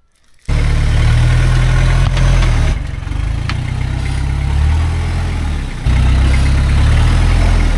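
Toyota LN106 Hilux's 3.0 turbo diesel engine running loud and low as the truck works over rock, coming in suddenly about half a second in. Its level eases off around three seconds in and steps back up near six seconds.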